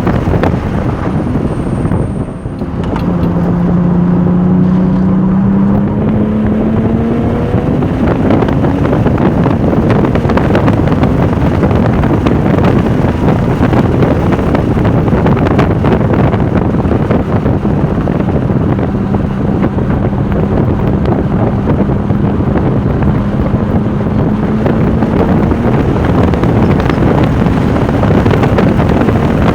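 Porsche 996 Turbo's twin-turbo flat-six driven hard on track under heavy wind and road noise on the microphone. The noise dips briefly about two seconds in, then the engine note rises for several seconds as it pulls. Later the engine holds a long, steady pitch.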